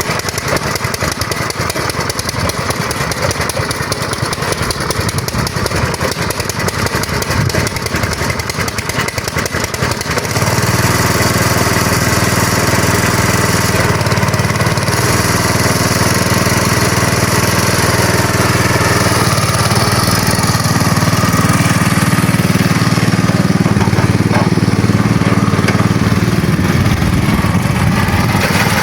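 A small engine running. About ten seconds in it steps up to a louder, steadier sound with more low rumble, and it holds there.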